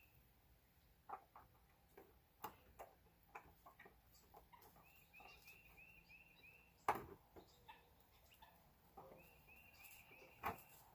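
Faint, scattered light clicks and taps from hand work with small tools, the sharpest about seven seconds in and near the end. A bird's quick run of high chirps repeats three times in the background.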